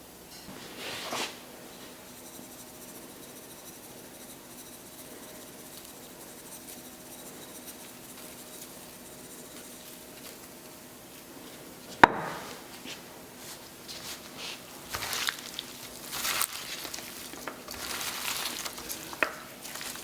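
Quiet kitchen handling sounds over a faint steady hum. There is a brief swish about a second in, then a sharp click about twelve seconds in, followed by irregular rustling and light knocks as things are moved about.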